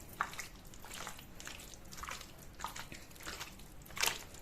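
Wet squelching and soft clicks of chicken pieces being mixed into a thick yogurt and spice marinade in a bowl, with a louder wet smack about four seconds in.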